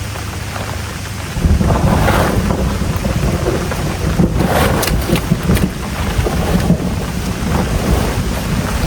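Rain falling steadily, with a low rumble that comes in about a second and a half in and carries on.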